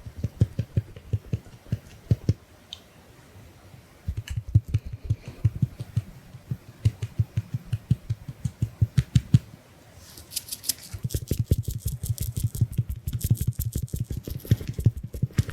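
Makeup sponge dabbing in quick runs of soft, dull taps, about six a second, layered over one another and denser near the end. About ten seconds in there is a short stretch of crisp, high brushing.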